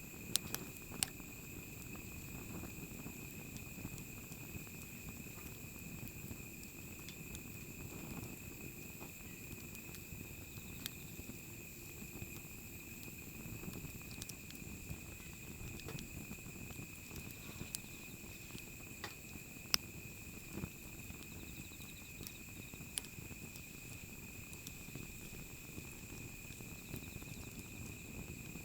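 Wood fire burning: a low steady rustle with scattered sharp crackles and pops, a few louder pops near the start and one about twenty seconds in.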